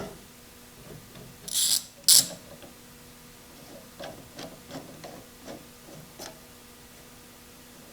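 A clamp being set and tightened: two short, loud ratcheting rasps about a second and a half in, then a few light clicks and taps as it is snugged up.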